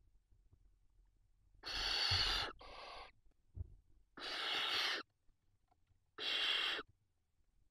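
Barn owls in the nest giving harsh hissing screeches: a long hiss with a shorter one right after it, then two more about two seconds apart.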